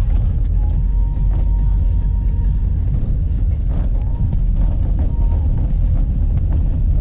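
Steady, loud low rumble of a vehicle on the move, with a faint steady whine and a few light clicks over it; it starts abruptly.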